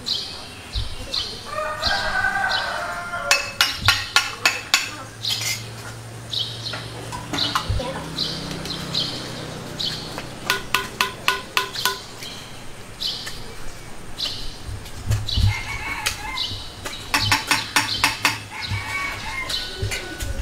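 Birds chirping, with short high calls repeated every second or so. Three bursts of rapid clicking come about 3, 10 and 17 seconds in.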